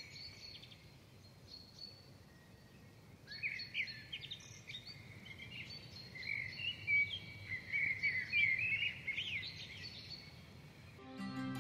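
Songbirds chirping and warbling in bursts of quick, high sweeping notes, with a quieter stretch about a second in. Music comes in just before the end.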